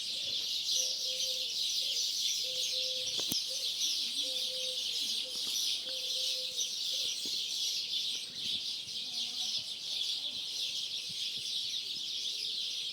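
A large flock of starlings chattering and screeching in a dense, unbroken high chorus at dawn, before sunrise. A lower call repeats several times in the first half.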